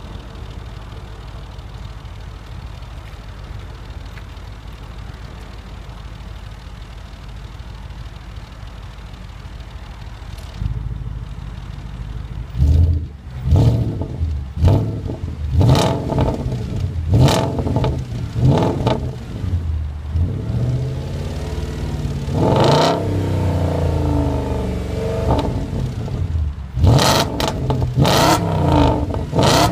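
Audi S4 Avant B7's 4.2-litre V8 exhaust, through a catless XS Power downpipe and the stock exhaust: it idles steadily for about ten seconds, then is revved in a string of quick throttle blips, one longer rev about two thirds of the way in, and another burst of blips near the end.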